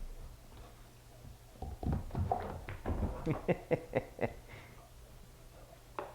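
A puppy's paws running across a hard indoor floor: a quick, uneven series of taps and thumps, about three or four a second for nearly three seconds, then a single click near the end.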